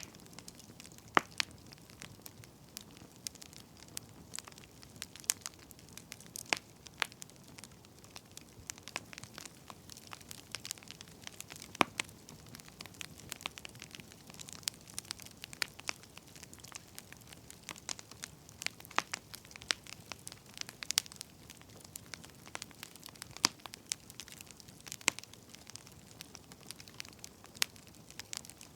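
Wood fire crackling: irregular sharp pops and snaps, a few louder ones, over a soft steady hiss.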